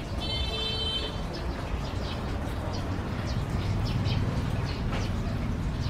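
Birds calling in the background: a steady, high call lasting about a second near the start, then faint short chirps, over a steady low rumble.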